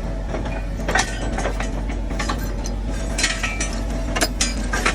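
Cat skid steer's engine running steadily under a string of sharp metal clinks and knocks as a new track is worked onto its undercarriage.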